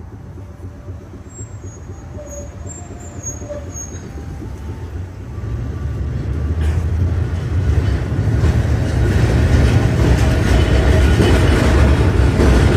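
Milan tram running on its rails: a deep rumble that grows steadily louder over the first half and then holds steady, with a few faint short squeaks in the first few seconds.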